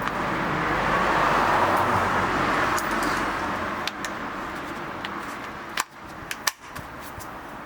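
A motor vehicle passing by, its noise swelling and then fading, with a few sharp clicks about six seconds in.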